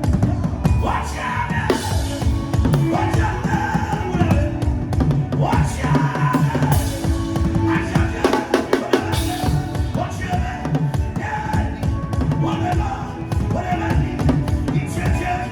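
Music led by drumming: a drummer playing a dense, fast beat of strikes over held pitched instrumental notes.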